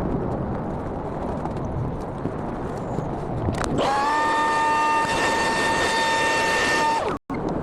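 A steady noisy hiss, then about four seconds in a small electric motor spins up and runs with a steady high whine for about three seconds. It cuts off abruptly near the end.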